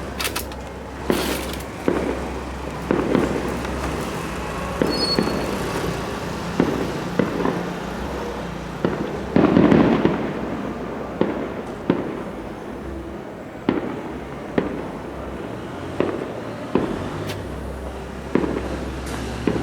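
Fireworks display: shells bursting with sharp bangs at irregular intervals, roughly one a second, with a louder burst of several explosions about halfway through.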